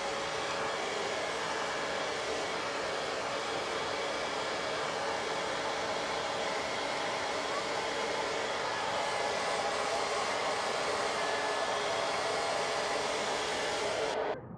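Handheld hair dryer blowing steadily, a rush of air with a steady motor tone under it. It cuts off suddenly near the end.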